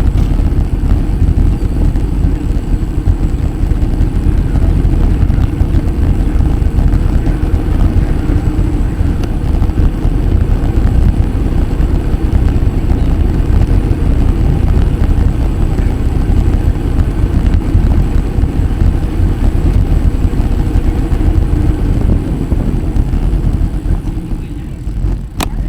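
Steady low rumble of wind buffeting the microphone, mixed with road noise, while riding a bicycle.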